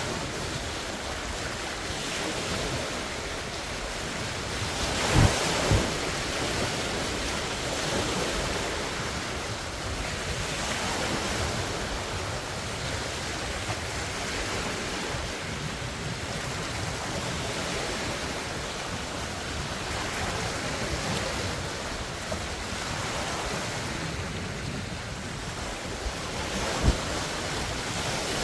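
Large wind-driven lake waves washing and splashing in steady, swelling surges, with wind on the phone microphone. A few sharp low thumps stand out, two close together about five seconds in and one near the end.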